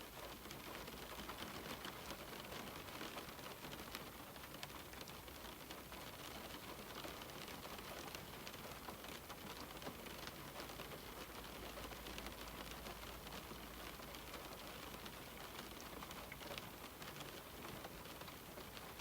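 Rain falling steadily on a window: an even hiss dotted with the small ticks of single drops.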